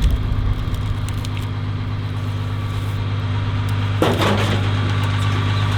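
Bobcat skid steer engine running steadily, with one loud crash about four seconds in as debris is dumped.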